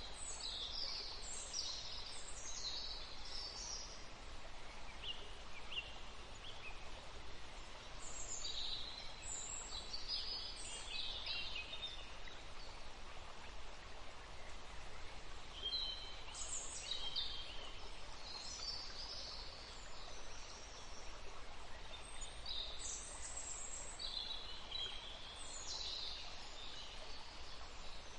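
Forest ambience: songbirds singing in clusters of quick, high chirps and trills that recur every few seconds, over a steady hiss of wind in the leaves.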